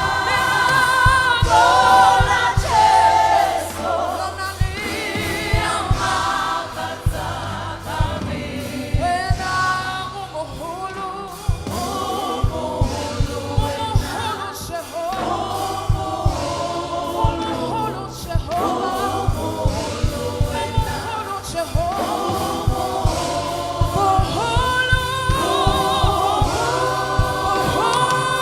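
Gospel choir singing with a band, with steady drum beats underneath.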